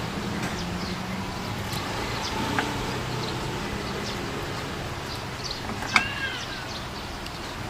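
Small birds chirping in short high notes over a low motor hum, which fades out about halfway through; one louder, sharper chirp comes about six seconds in.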